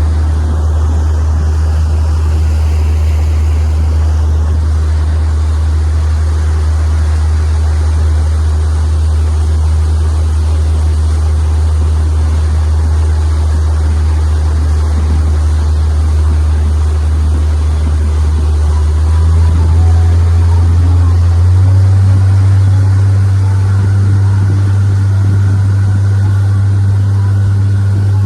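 Boat engine running steadily with a deep, even hum, its revs stepping up about two-thirds of the way through.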